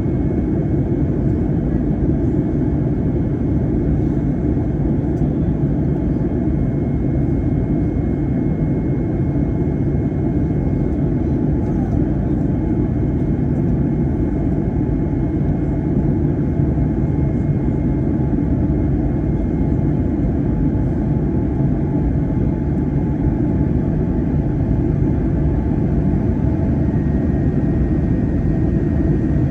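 Steady roar of engine and airflow noise inside the cabin of an Airbus A321 airliner, even throughout with a faint steady high whine.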